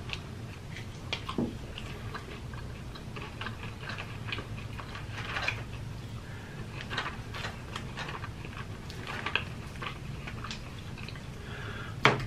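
Close-miked eating sounds: a person biting and chewing fried food, with irregular small mouth clicks and smacks over a low steady hum. A sharper click comes near the end.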